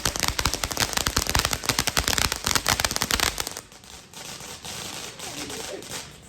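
A string of firecrackers going off in a rapid, dense volley of sharp pops. It stops abruptly about three and a half seconds in, leaving a fainter crackle.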